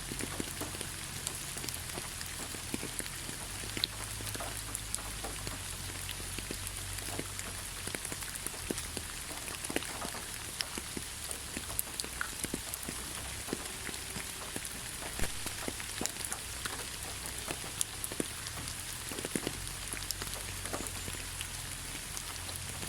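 Rain falling on leaves: a steady patter with many separate drops ticking sharply, none standing out above the rest.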